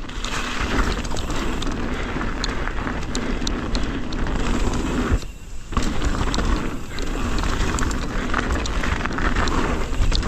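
Mountain bike riding down a frozen dirt trail: steady tyre and wind noise with scattered clicks and rattles from the bike. The noise drops briefly about five seconds in, then resumes.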